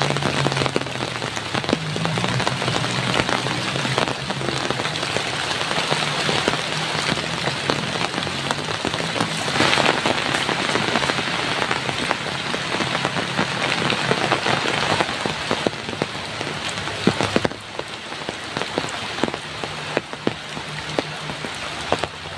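Heavy rain falling steadily, a dense hiss of countless separate drops striking a surface.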